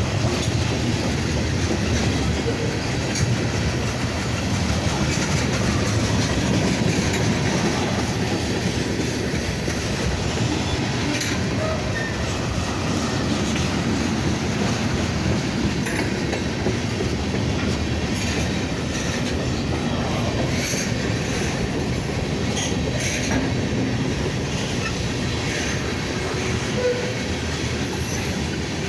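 Freight cars of a slow mixed freight train rolling past, a steady rumble with wheels clicking over the rail joints and now and then a faint squeal.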